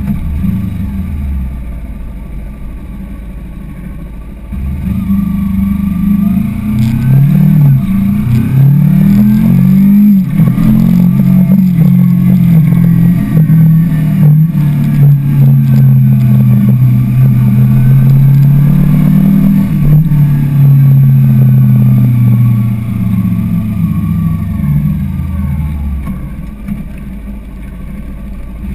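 Kawasaki sport motorcycle engine, quiet at first, then accelerating hard from about five seconds in, its pitch climbing and dropping back at each gear change. It holds a steady cruising note through the middle and winds down near the end as the bike slows.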